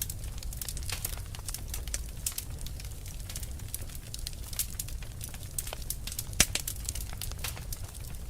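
Fire burning with dense, irregular crackles and snaps over a steady low rumble, and one louder pop about six seconds in.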